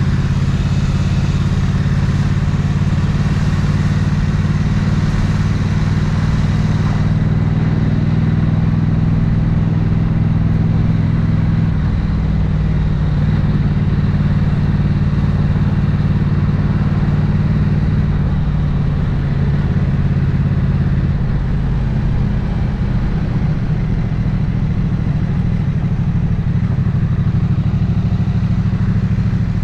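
Triumph 900cc parallel-twin motorcycle engine and exhaust running steadily at low revs, its pitch shifting slightly a couple of times.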